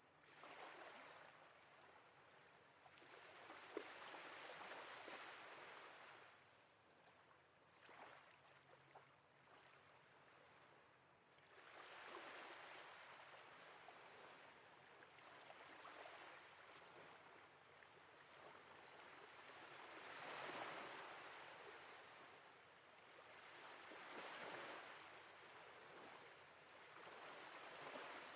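Faint sea waves washing in and drawing back, swelling and fading about every four seconds.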